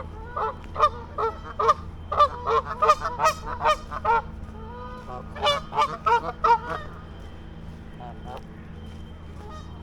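Several Canada geese honking: a quick run of loud, overlapping calls that stops about seven seconds in.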